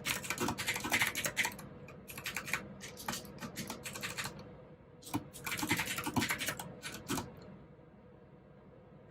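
Typing on a mechanical keyboard with clicky blue switches, in quick runs of keystrokes broken by short pauses. The typing stops a little after seven seconds in.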